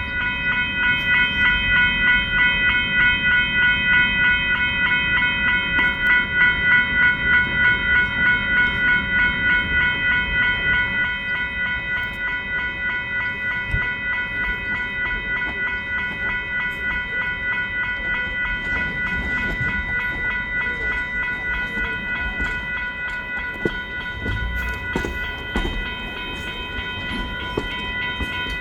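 Steam locomotive bell ringing steadily as No. 493 backs its train, its rhythmic strokes loudest for the first ten seconds or so and then quieter, over the low rumble of the moving train with a few knocks and clanks later on.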